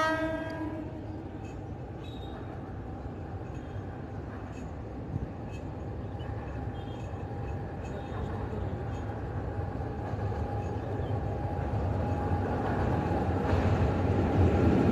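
WAG-7 electric locomotive's horn sounding and cutting off under a second in. Then the rumble of the approaching container freight train on the rails, growing steadily louder toward the end as it nears.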